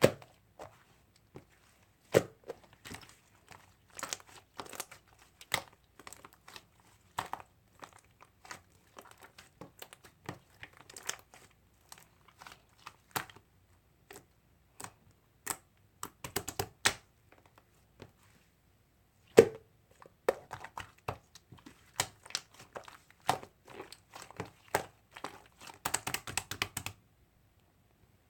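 Slime being squeezed, poked and stretched by hand, giving irregular crackling pops and clicks with short pauses between handfuls; the sharpest snaps come about two seconds in and again about nineteen seconds in.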